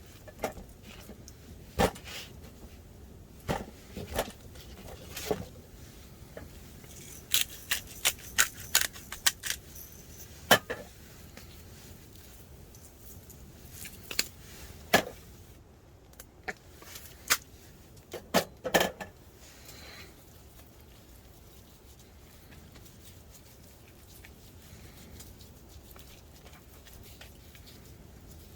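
A series of irregular sharp clinks and knocks, like small hard objects being handled, several in quick succession, stopping about two-thirds of the way through and leaving only a low steady background.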